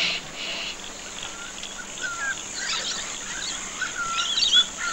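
Short whistled bird chirps, repeated from about a second and a half in, over a faint insect buzz.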